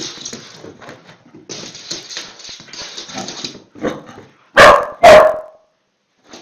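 A dog barks twice, very loud and close, about half a second apart near the end, after a few seconds of scratchy rustling noise.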